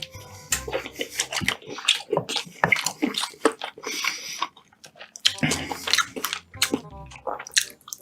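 Close-miked eating of whole chicken: wet chewing, smacking and tearing of the meat, with many sharp, irregular clicks and crackles.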